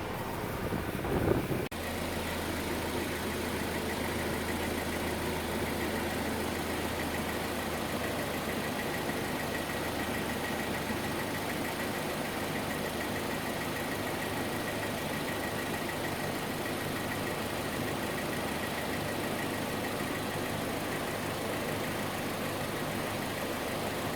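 Hyundai Sonata LPI engine idling steadily with the air conditioning switched on, the blower on maximum and the compressor running. There is a short rustle about a second in, then a steady low hum sets in and holds.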